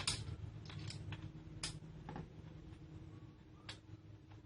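Irregular light clicks and taps of small metal parts and a hand tool being handled while screws are tightened on an angle-grinder chainsaw adapter. The clicks come a few a second at first, then thin out.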